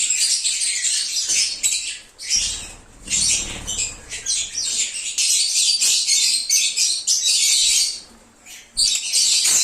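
A group of lovebirds chirping and squeaking rapidly and continuously in high, shrill notes, with two brief lulls.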